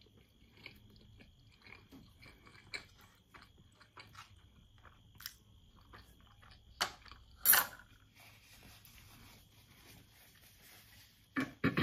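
Close-miked chewing of soft steamed manti dumplings, with small wet mouth clicks. A couple of louder short sharp sounds come about seven seconds in, and again just before the end.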